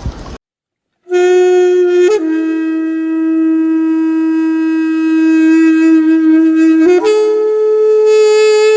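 Background music: a solo wind instrument holding long, steady notes, a short note and then a long slightly lower one, stepping up to a higher held note about seven seconds in.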